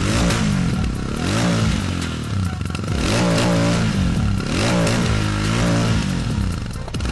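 Royal Enfield Super Meteor 650's 648 cc parallel-twin exhaust note while the bike is ridden. The revs rise and fall about five times in succession.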